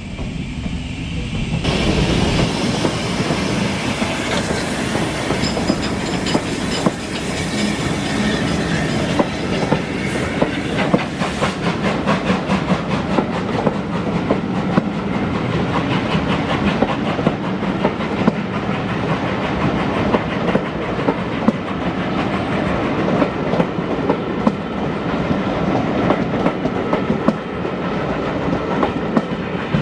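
A train passing, its wheels clattering in a rapid run of clicks over the rail joints; it gets louder about two seconds in.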